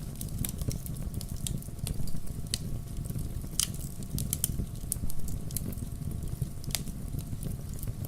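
Burning logs in a fireplace crackling, with frequent irregular sharp pops over a steady low rumble of the flames.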